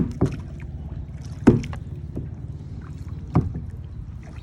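Kayak paddle strokes: a sharp knock or splash with each stroke, about every second and a half, over a steady low rumble.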